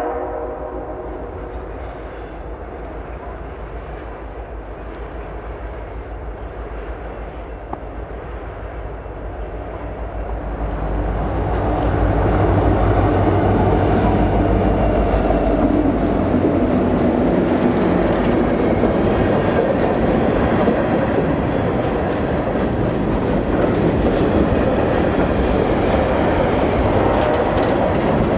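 Freight train led by EMD diesel locomotives passing close by just after its horn stops: the rumble builds for about ten seconds, is loudest as the locomotives go by, then the cars roll past with a steady clatter of wheels on rail.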